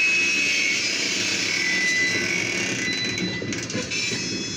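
Freight train of grain hopper cars rolling slowly past, heard from inside a car: a steady rumble and hiss with faint high whining tones that drift a little lower.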